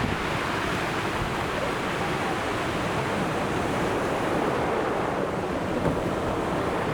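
Ocean surf breaking and washing on the shore, a steady rush of waves, with wind buffeting the microphone.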